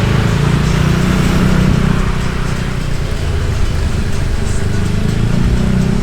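Motorbike engine running steadily while riding, with a low drone that rises and falls a little in pitch, mixed with road and wind noise.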